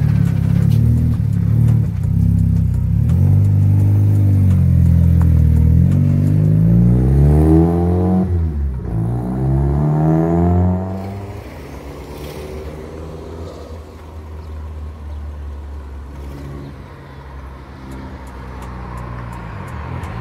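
Toyota Starlet KP60's 20-valve turbo engine running close by, then pulling away. Its pitch climbs, drops at a gear change about eight seconds in and climbs again, then the sound fades as the car draws away.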